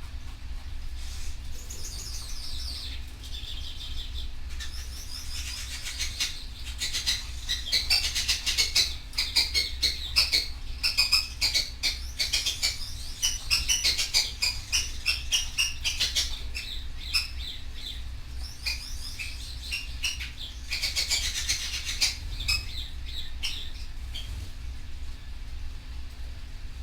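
Canary singing: fast runs of high chirps and trills in a long bout near the middle and a shorter one a few seconds later, with scattered short clicks and a steady low hum underneath.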